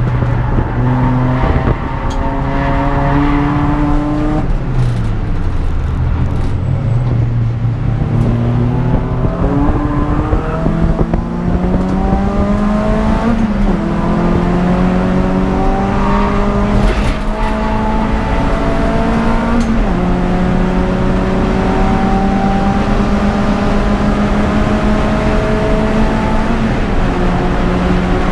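Peugeot 206 GTI's four-cylinder engine racing under hard throttle. The revs fall for a corner about four seconds in, then climb steadily through the gears, with quick upshifts dropping the pitch about halfway through, about two-thirds through and near the end.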